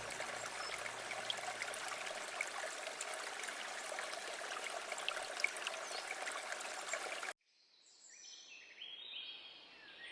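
Steady rushing and trickling of a flowing stream, with scattered small splashes, as a low background music tone fades away in the first second or so. The water cuts off suddenly about seven seconds in, leaving faint high notes stepping downward near the end.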